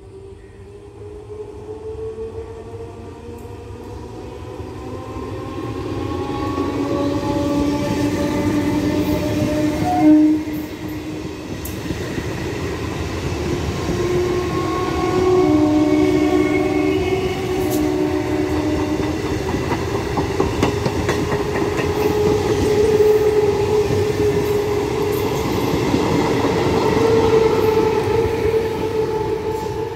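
Conventional EMU electric local train approaching and running past at speed: a whine rising in pitch as it draws near, a short loud horn-like blast about ten seconds in, then the coaches rumbling by with the clickety-clack of wheels over rail joints.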